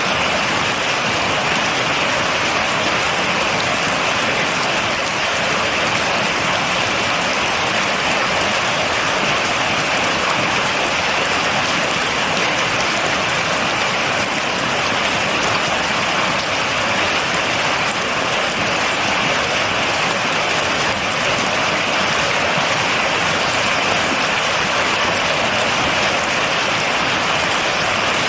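Steady heavy rain falling, a dense even patter of drops with no thunder.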